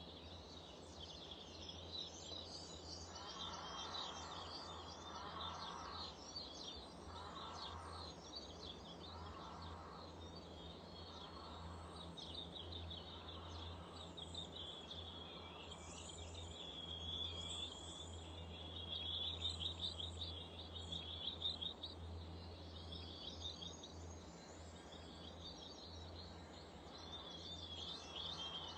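Small garden songbirds chirping and twittering without a break, many calls overlapping, over a steady low hum. Early on a few short, lower-pitched calls repeat about every second and a half.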